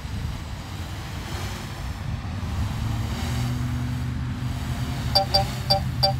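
Steady low rumble, with a low steady hum joining about halfway through. Near the end a rapid run of sharp electronic beeps starts, about three a second.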